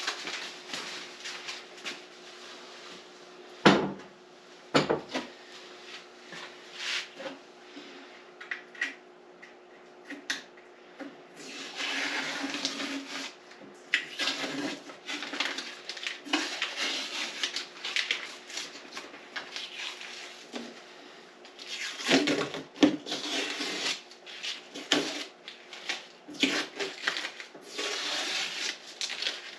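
Workbench handling of metal parts: scattered knocks and clatters, with rustling stretches about a third of the way in and again near the end, over a faint steady hum.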